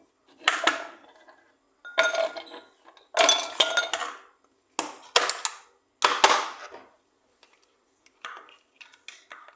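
Kitchen utensils and dishes clinking and clattering in a series of sharp knocks, fainter and sparser near the end.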